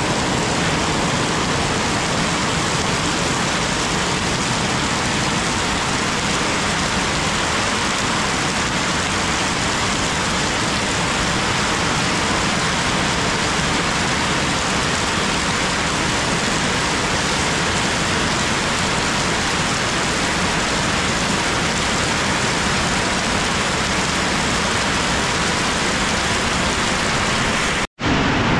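Heavy downpour: a steady, dense hiss of rain falling on trees, grass and puddles. It breaks off for an instant near the end, then goes on.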